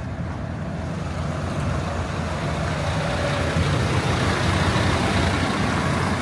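Truck engine running steadily, growing louder from about two seconds in.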